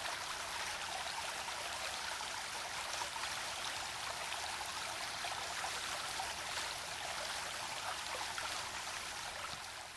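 A babbling brook flowing steadily, a continuous rushing and trickling of water that begins to fade out near the end.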